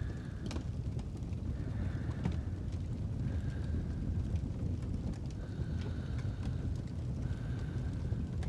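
Fireplace fire crackling with scattered sharp pops over a steady low rumble, with a faint high tone that comes and goes every second or two.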